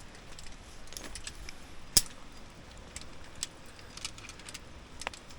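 Climbing hardware clinking: carabiners and belay gear knocking together in scattered light metallic clicks, with one sharp, louder clack about two seconds in.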